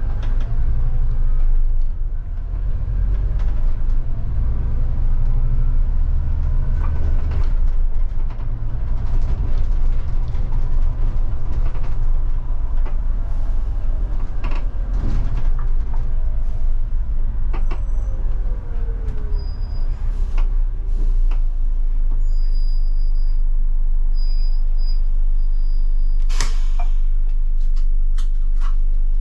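Scania K250IB bus's diesel engine running under way, with creaks and rattles from the bus; the revs rise and fall through the first two-thirds, then settle steady. A few short high beeps sound later on, and a short sharp hiss comes near the end.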